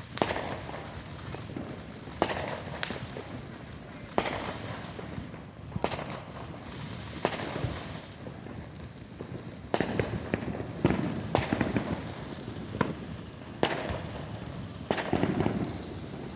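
Consumer fireworks going off: a string of sharp bangs at irregular intervals, some followed by brief crackling.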